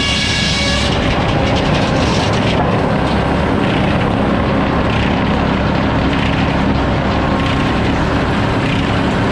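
Sawmill engine running steadily under load, with a high-pitched saw whine that drops away about a second in.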